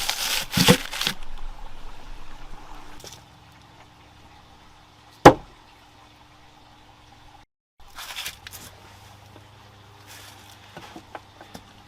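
Rustling and knocking of firewood and kindling being handled and laid for a campfire, heaviest in the first second. One sharp knock or snap rings out about five seconds in, and fainter rustles and ticks follow after a brief cut.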